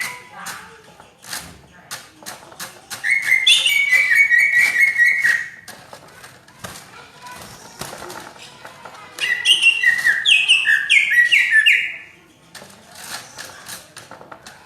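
Cucak ijo (green leafbird) singing two loud bursts of fast, rapidly changing chattering notes, one about three seconds in and one about nine seconds in, each lasting two to three seconds. Short clicks are scattered between the phrases.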